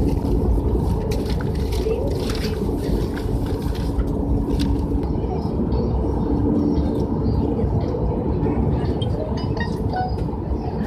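Jet airliner heard from inside the cabin: steady engine noise and low rumble, with a hum that drops out about five seconds in and returns, and light clicks and rattles.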